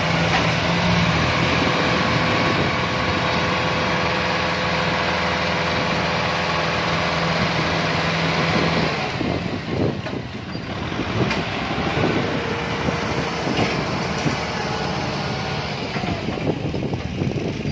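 Kubota M6040 tractor's diesel engine running at a steady note. About nine seconds in, the steady note drops away and the sound becomes rougher and uneven, with a few scattered knocks.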